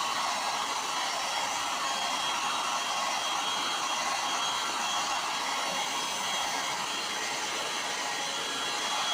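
Hot-air gun blowing steadily, with a thin high whine in its rush of air, as it heats a bent radiator tank casing so the metal can be bent back into shape.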